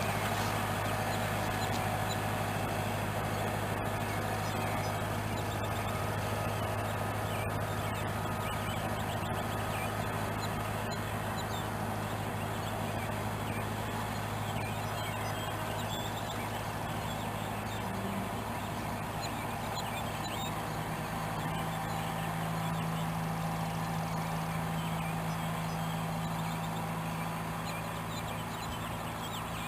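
Large farm tractor's engine running steadily with a low hum while pulling a tree planter; a second, higher steady note joins about two-thirds of the way through.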